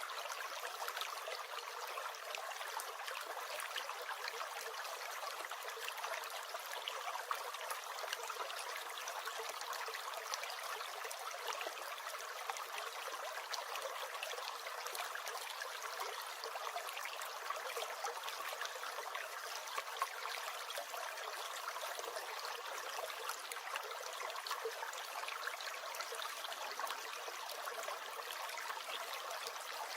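Stream gurgling steadily, a continuous trickling babble of running water.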